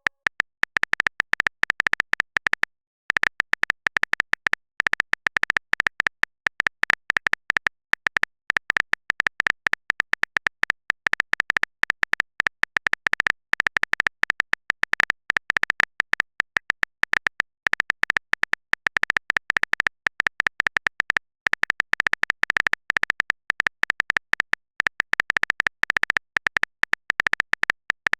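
Rapid run of phone-keyboard typing clicks, many a second, with a few short pauses.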